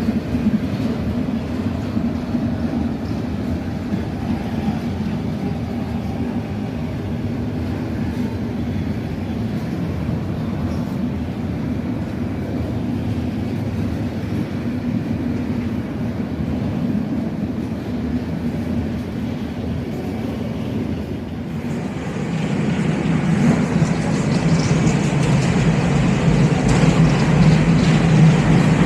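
Freight train passing, a steady rumble of railcars rolling on the track. About three-quarters of the way in the sound grows louder, with a steady low engine hum.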